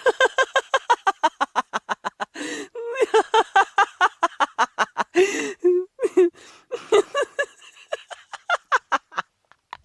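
A person laughing hard in rapid runs of short 'ha' pulses, about seven a second, with gasping in-breaths between the runs and a brief pause near the end.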